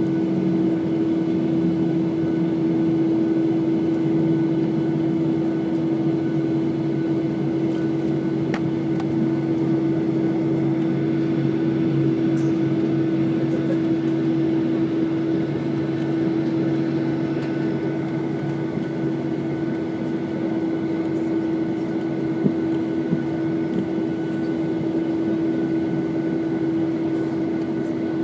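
Cabin noise inside a Ryanair Boeing 737 airliner: a steady drone of the engines at low power and the air system, with a held hum and fainter high whines, level unchanging. A single small click sounds about 22 seconds in.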